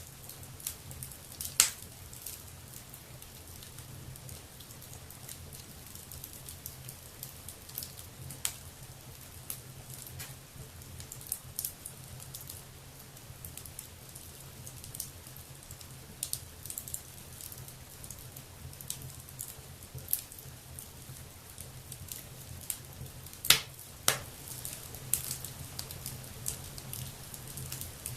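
Wood fire burning in a fireplace: scattered sharp crackles and pops over a faint steady hiss, the loudest pops about a second and a half in and about five seconds before the end.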